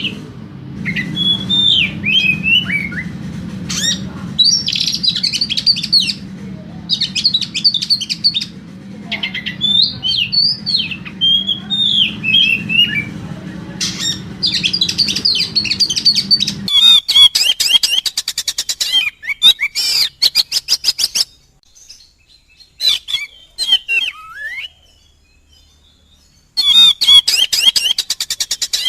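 Oriental magpie-robin (kacer) singing in an agitated, full-song style: varied whistled phrases that glide up and down, over a low steady hum that cuts off about two-thirds through. Then come fast chattering runs of repeated notes, a short lull with a few scattered calls, and another rapid run near the end.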